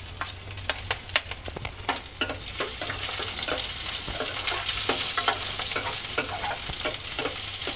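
Chopped green chillies and ginger sizzling in hot oil with cumin seeds in a stainless steel kadhai, while a metal ladle stirs and clicks against the pan. The sizzle grows louder about two and a half seconds in.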